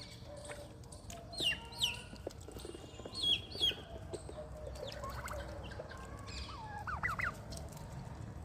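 Farmyard poultry calling: two pairs of loud, high, falling calls in the first four seconds, then quicker runs of lower calls about five and seven seconds in, over a steady low background noise.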